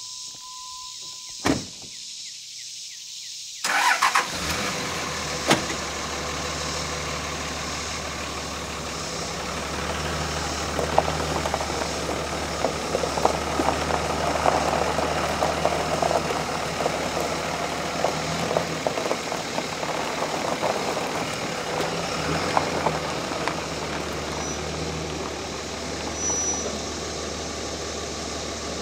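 A single knock, then about four seconds in a pickup truck's engine cranks and catches, then runs steadily at idle.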